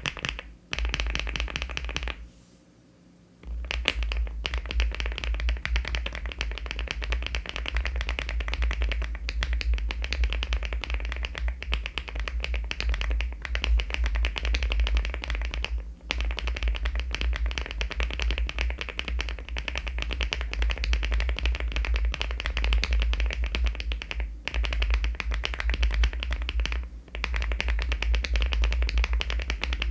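Fast, continuous typing on a LEOBOG Hi75 aluminium mechanical keyboard fitted with HMX switches and Cherry-profile keycaps: a dense run of keystroke clacks. The typing pauses for about a second a little after two seconds in.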